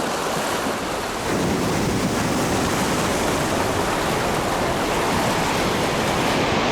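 Ocean surf: a steady wash of waves that swells about a second in and then holds.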